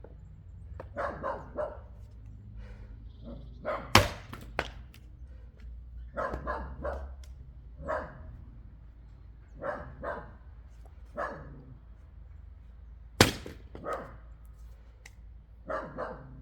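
A dog barking again and again in short runs of two or three barks. Two sharp axe strikes on wood cut through, about four seconds in and again about thirteen seconds in, and they are the loudest sounds.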